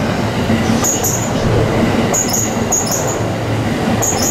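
Orange-and-green striped JR East suburban electric train running slowly past along the platform, a steady rumble of wheels on rail with short high-pitched squeals about every second.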